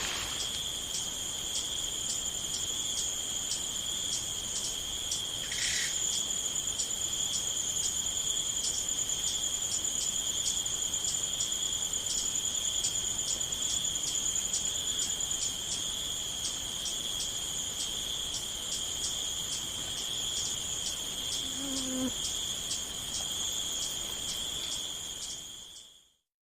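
Crickets chirping: a steady high trill with a regular pulse of about two or three chirps a second, cutting off suddenly near the end.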